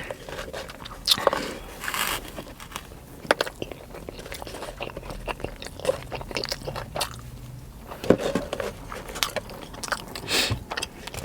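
Close-up chewing and crunching of sushi, with many small irregular clicks and a few short breaths.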